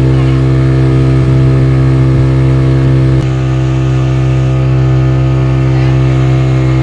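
Speedboat engine running steadily at a constant pitch, with a brief click and a slight drop in level about three seconds in.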